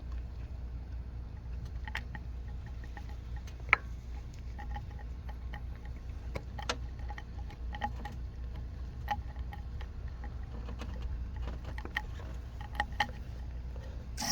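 Foam carburetor cleaner crackling and fizzing in the spark plug holes of the engine's combustion chambers. Scattered faint clicks and tiny pings come at uneven intervals over a low steady hum, with one sharper click about four seconds in.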